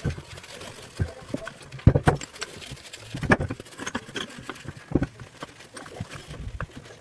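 Irregular knocks and clicks as a greasy two-stroke motorized-bike engine is handled and cleaned, with a few louder knocks scattered through.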